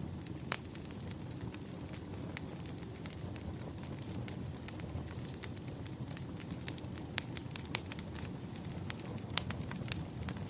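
Wood fire crackling: a steady low rush with scattered sharp pops and snaps, a few louder ones about half a second in and again near the end.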